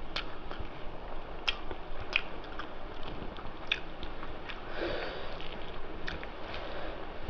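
Close-up eating sounds: chewing with sharp wet mouth clicks and smacks while eating rice and spicy mutton curry, and a sniff about five seconds in.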